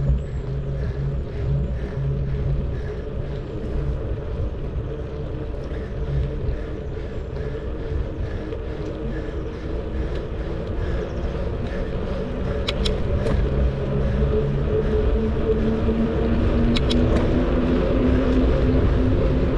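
Steady wind and riding noise from a bicycle ride, with a motor's drone that grows louder through the second half, and two short sharp clicks.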